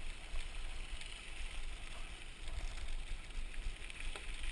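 Mountain bike rolling over a dirt trail: a steady crunch of tyres with a few light rattles, under a low rumble of wind on the microphone.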